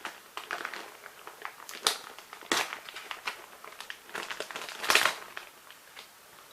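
Packaging of a boxed firework set crinkling and rustling as it is unsealed and opened by hand, with sharper crackles about two and a half and five seconds in.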